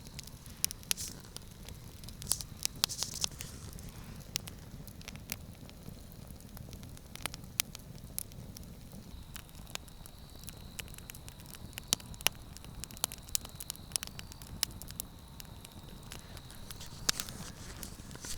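Campfire of pine wood crackling, with irregular sharp pops and snaps, several a second, over a low steady hiss.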